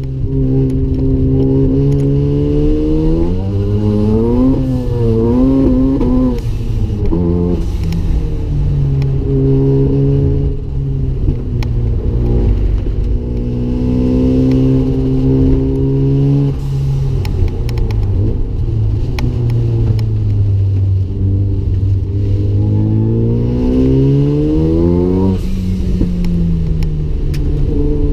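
Mazda RX-7's single-turbo rotary engine driven hard: the engine note climbs under acceleration and drops sharply at gear changes and lifts, several times over.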